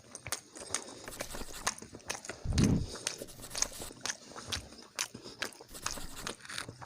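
Close-up chewing and eating sounds: a run of irregular wet mouth clicks and smacks, with one louder, deeper sound about two and a half seconds in.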